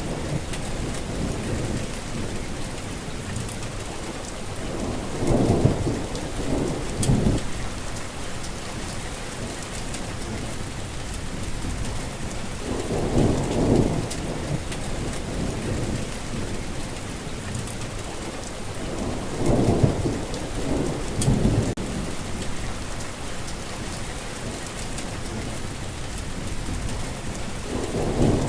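Heavy rain falling steadily, with low rolls of thunder. The thunder swells and fades about four times: around 5 to 7 seconds in, near 13 seconds, twice around 19 to 21 seconds, and again at the end.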